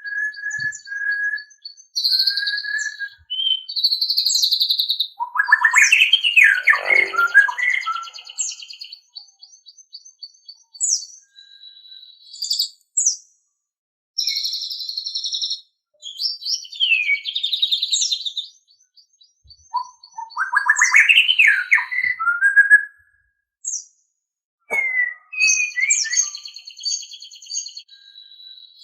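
White-rumped shama (murai batu) singing: varied phrases of clear whistles, sweeping notes and fast trills, broken by short pauses.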